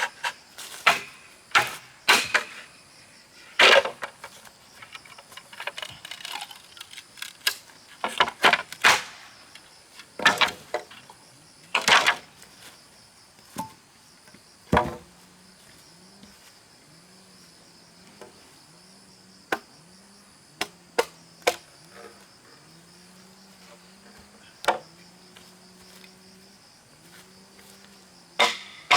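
Irregular sharp knocks of a tool striking bamboo while building, thick in the first half and sparser later. Steady insect buzzing runs underneath.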